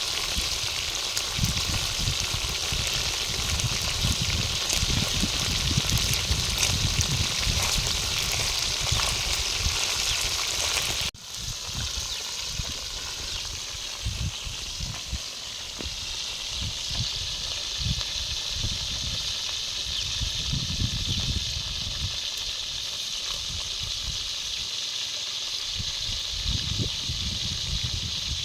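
Food sizzling and crackling in hot oil in a pan. About eleven seconds in there is an abrupt cut to a quieter steady hiss.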